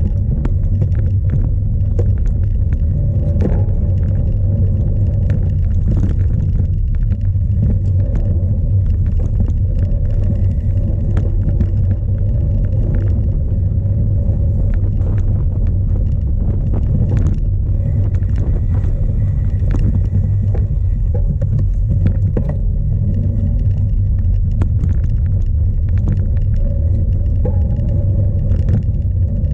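Heavy wind rumble buffeting a bike-mounted action camera during a cyclocross race in storm-force wind. Many short clicks and knocks from the bike riding over rough ground are mixed in.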